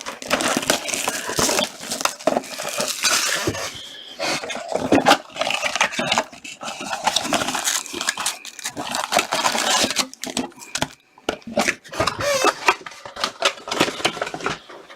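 Plastic wrap and foil card packs crinkling and tearing, with cardboard and cards rustling and clicking, as a retail blaster box of hockey cards is opened and its packs torn into.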